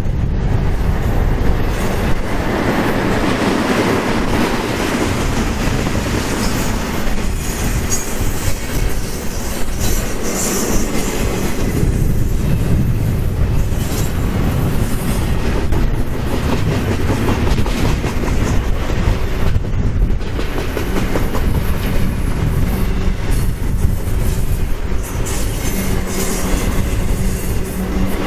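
Double-stack intermodal freight cars of a BNSF train rolling past, steel wheels clicking over the rails in a steady, continuous rolling noise.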